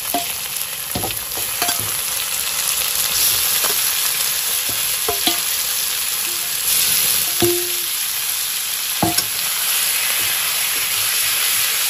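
Pieces of raw goat liver and fat sizzling as they land in onions frying in hot oil in a metal kadai, a steady frying hiss with scattered metal clinks and knocks against the pan. Near the end a spatula stirs the mixture.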